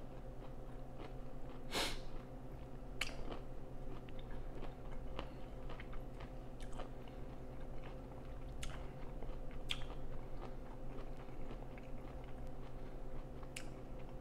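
A person chewing food close to the microphone with the mouth closed, with about half a dozen sharp crunches scattered through, the loudest about two seconds in. A steady low hum runs underneath.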